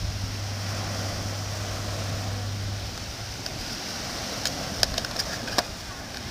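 Seaside noise of waves and wind, with a steady low engine-like hum that stops about three seconds in. A few sharp clicks come near the end.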